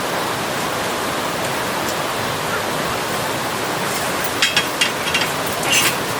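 Steady rushing of a mountain valley stream, with a few short clicks about four to six seconds in.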